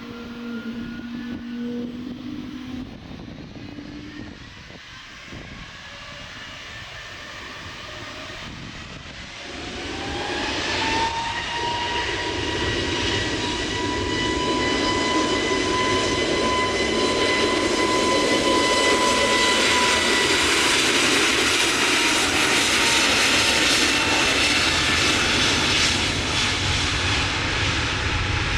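Jet airliner engines: a quieter stretch, then about a third of the way in a whine rises and levels off as the engine noise swells to loud, steady running, as when a jet spools up to high thrust.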